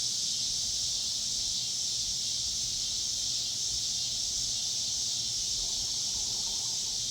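Evening insect chorus: a steady, high-pitched hiss that does not pulse or change.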